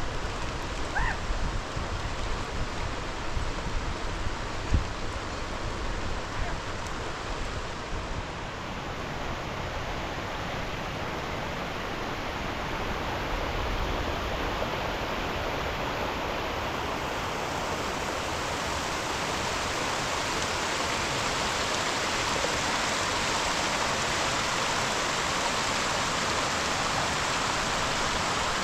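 Steady rain falling, growing heavier about two-thirds of the way through, with a few low thuds in the first several seconds.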